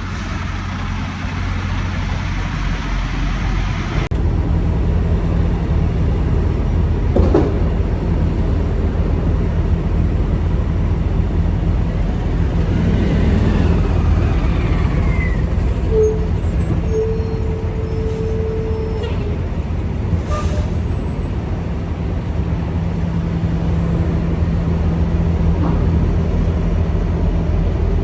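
Semi truck's diesel engine running steadily with road noise, with a short tone and then a longer steady tone around the middle.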